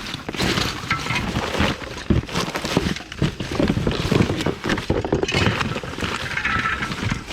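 Rummaging through trash in a dumpster: continuous rustling with many small irregular knocks and clatters as items are moved about.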